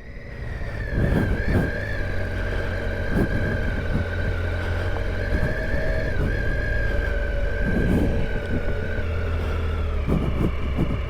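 Triumph Tiger 800 XCa's three-cylinder engine running steadily under way, with a steady high whine above the engine note and occasional low thumps.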